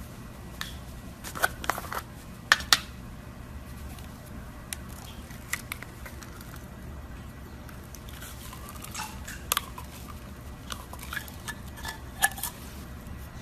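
Scattered sharp clicks and taps of a utensil against a container while slime is being mixed, over a steady low hum.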